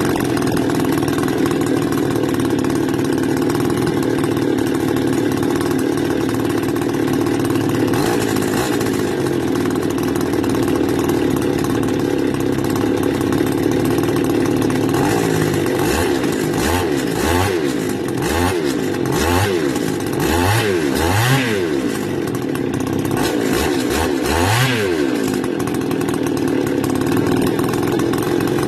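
Stihl FS280 brush cutter's two-stroke engine running steadily just after being started. In the second half its speed rises and falls several times.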